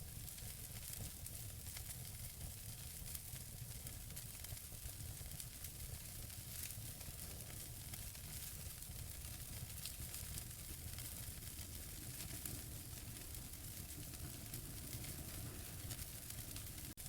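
Wood fire in a fireplace burning steadily, logs crackling and popping with frequent small snaps over a soft hiss and low rumble.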